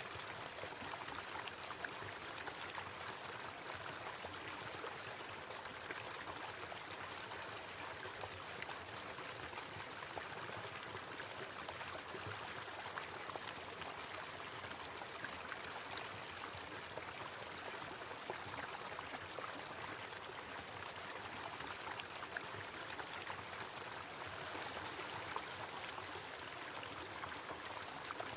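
Small waterfall running steadily: an even rush of falling water, with scattered small splashes.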